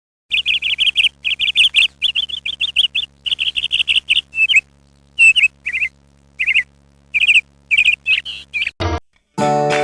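Birds chirping in quick bursts of rapid, high notes, dense for the first few seconds and then more spaced out. Music begins right at the end.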